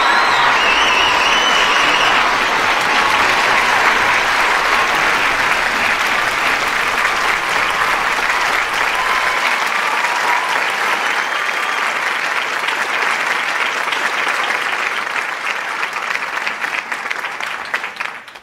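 Large studio audience applauding, with a few whoops in the first couple of seconds; the clapping thins out and cuts off abruptly at the end.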